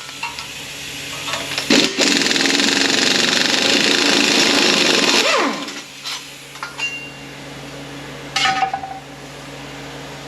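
Power tool running out a 14 mm bolt on an automatic transmission case in a burst of about three and a half seconds, then winding down with a falling whine. A few light metallic clicks follow as parts are handled.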